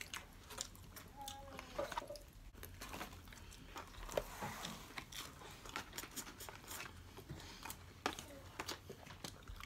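Faint chewing of chicken nuggets, with many small scattered clicks.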